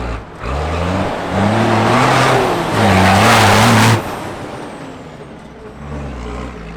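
Tatra Dakar rally truck's diesel engine revving hard under full throttle, its pitch stepping upward, then cutting off abruptly about four seconds in and falling back to a lower running sound.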